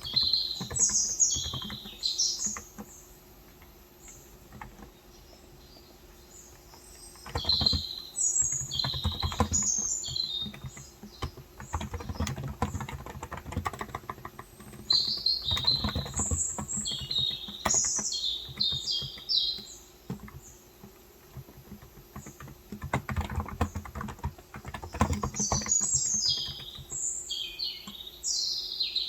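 Typing on a Cox Endeavor tenkeyless keyboard with electrostatic capacitive (topre-style) 35 g switches: runs of quick keystrokes broken by short pauses. Birds chirp in several bursts of high twittering over the typing.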